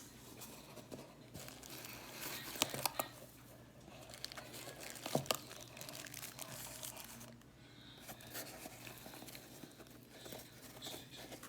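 Packing material crinkling and rustling as a shipping box is unpacked by hand, with a few sharp snaps about two and a half and five seconds in.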